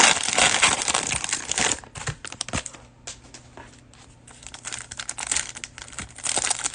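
Cellophane wrapper of a trading-card cello pack crinkling as it is handled and pulled open, with scattered crackles and clicks from the cards. The crinkling is dense at first, thins out through the middle and picks up again near the end.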